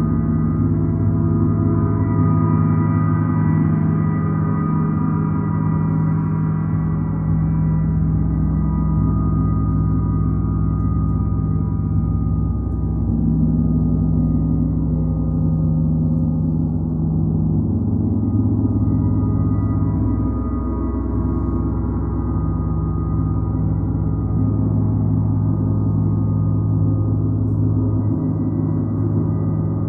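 A gong played continuously, a sustained wash of many overlapping deep tones that slowly swells and ebbs, without separate strikes standing out.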